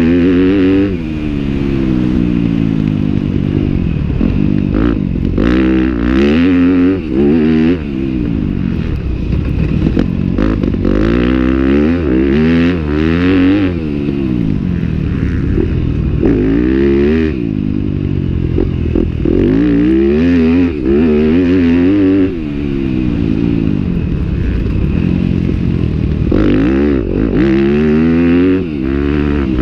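Husqvarna 610 supermoto's single-cylinder four-stroke engine racing hard: the pitch climbs again and again and drops sharply at each gear change or lift of the throttle.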